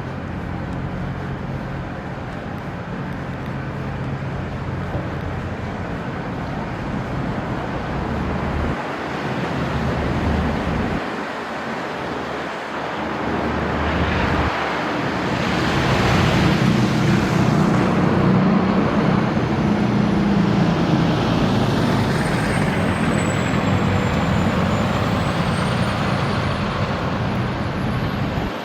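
Downtown street traffic with a heavy vehicle's engine running low and steady, swelling louder a little past halfway as it passes close. Near the end a thin, high whine glides down and back up.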